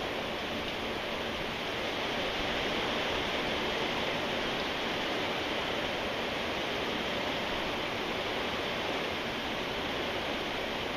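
Steady rain falling: an even, unbroken hiss with no single drops, thunder or other sounds standing out.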